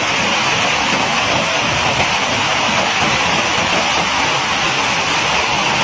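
Floodwater rushing, a loud, steady noise without break.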